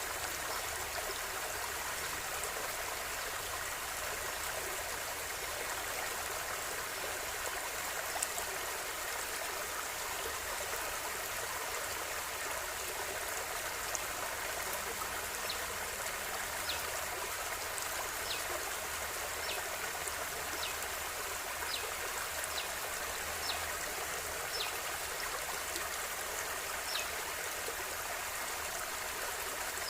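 A gently flowing river running steadily, with small brief ticks of drips or splashes now and then, mostly in the second half.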